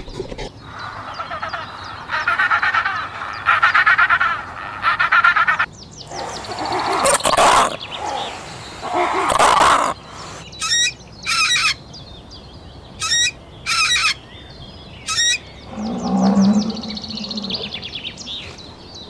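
A run of animal calls: warbling calls for the first several seconds, then five short, sharp calls, and a low call near the end.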